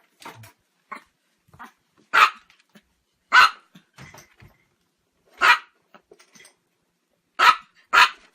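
A dog barking: five loud single barks spaced one to two seconds apart, the last two close together near the end.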